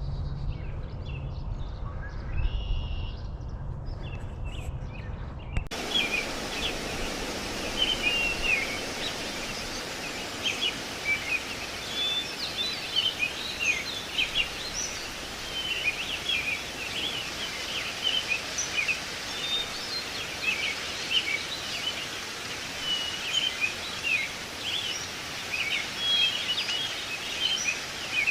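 Outdoor lakeside ambience: a low rumble for the first few seconds, then many small birds chirping over a steady hiss.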